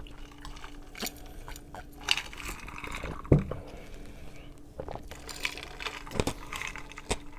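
Close-miked eating and drinking sounds: wet mouth noises and slurps of noodle soup, with scattered light clicks and clinks.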